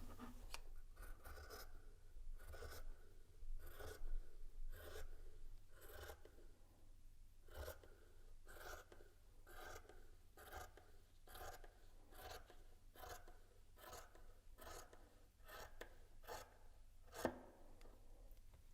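Scissors cutting through fabric: a faint, regular run of snips, about one and a half a second, with one louder snip near the end.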